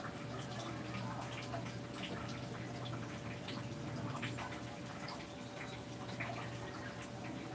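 Garlic sizzling in a frying pan, a steady hiss with scattered small pops and crackles.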